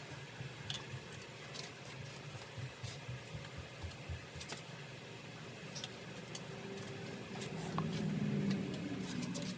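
Scattered light metallic clicks and clinks of hand tools working on metal, a few seconds apart, as a torque wrench is put to the cylinder nuts of a two-stroke motorcycle engine. A low rumble swells briefly near the end.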